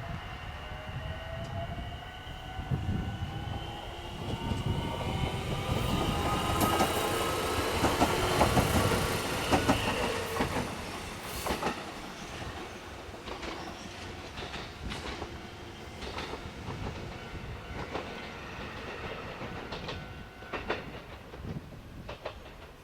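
A train passing, its running whine rising steadily in pitch as it picks up speed and loudest about eight seconds in, then the wheels clicking over rail joints as it moves away.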